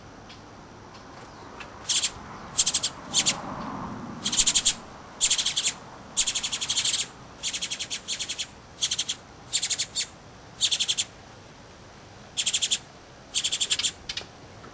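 Goldfinch nestlings begging in the nest: about a dozen short bursts of fast, buzzy chirps in quick succession, high-pitched and loud.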